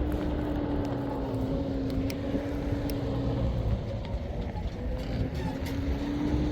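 A motor vehicle engine running under a low rumble; its note sags over the first few seconds and climbs again near the end.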